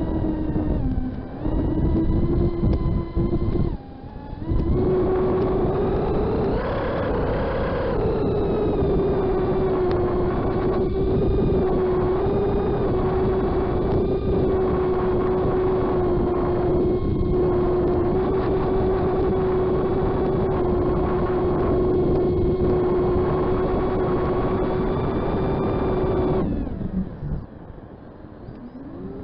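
FPV racing quadcopter's brushless motors and propellers whining steadily, with buffeting air noise. The pitch dips twice in the first few seconds and climbs about six seconds in, then holds level. Near the end the whine drops away and the sound goes much quieter.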